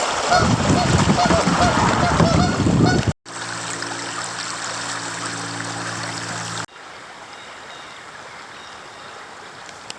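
Geese honking over and over above the noise of moving water for about three seconds. The sound then cuts off abruptly to a steady rush of water with a low hum under it. Near the middle it cuts again to quieter, even water noise.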